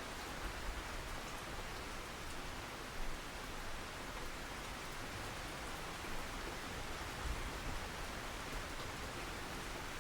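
Steady rain falling, an even hiss with a few slightly louder drops.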